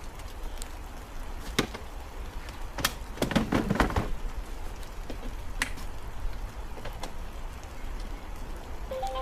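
Rain pattering on a tent, with scattered sharp clicks and a short cluster of knocks a few seconds in. A brief electronic tone stepping upward in pitch sounds at the very end.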